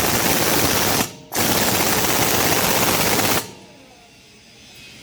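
Pneumatic impact wrench hammering in two loud bursts, the first about a second long and the second about two seconds, stopping a little over three seconds in.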